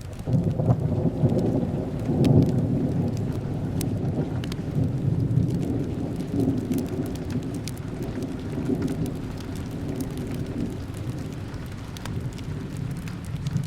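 A thunder rumble breaks in suddenly, loudest in the first few seconds, then rolls on and slowly fades away. Steady rain and fireplace crackles sound throughout.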